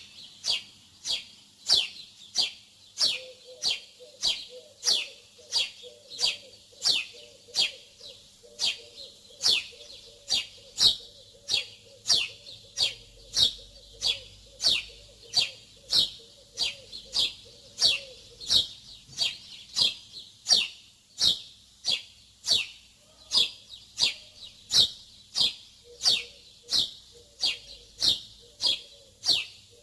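Small bird chirping over and over, about two short, high, falling chirps a second at an even pace.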